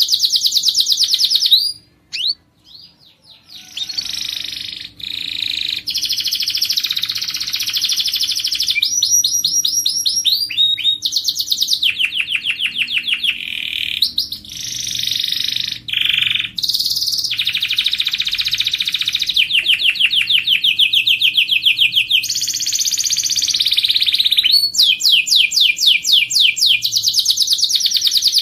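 Domestic canary singing: a long, continuous song made of rapid trills, each a fast run of repeated high notes, changing from one trill to the next, with a brief pause about two seconds in.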